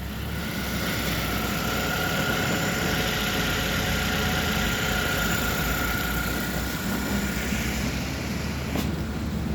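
2023 MG3's 1.5-litre petrol engine running steadily at idle, with a thin steady whine over the engine note and a single click near the end.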